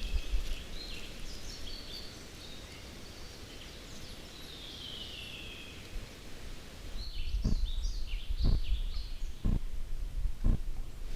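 Birds chirping, with one falling call in the first half. In the second half, sharp knocks come about once a second over a low rumble.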